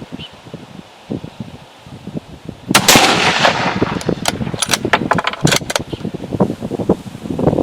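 A single bolt-action hunting rifle shot about three seconds in, with a long echoing tail, over heavy wind buffeting the microphone.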